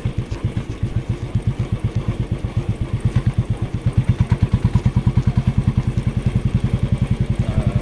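Motorcycle engine running at steady speed during a ride, a regular low throb of exhaust pulses, growing louder about three seconds in.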